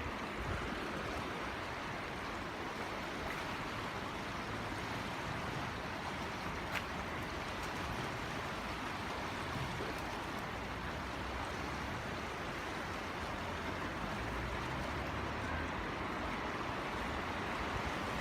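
Steady rush of water from a small waterfall, with low wind rumble on the microphone.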